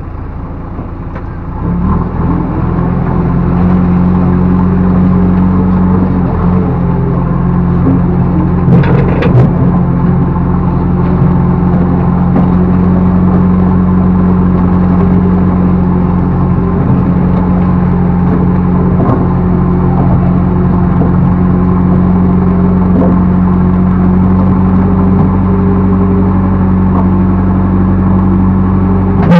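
Backhoe loader's diesel engine revving up about two seconds in and then running steadily at raised revs under work. A few short knocks come about nine seconds in.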